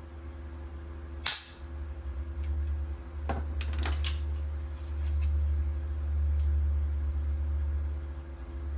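Steady low hum of a running machine, growing louder about five seconds in. A sharp click comes about a second in, and a few lighter clicks follow around three to four seconds in.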